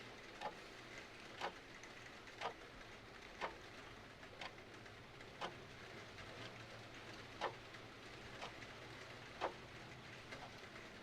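Mechanical clock ticking about once a second, some ticks louder than others, over a steady hiss of rain.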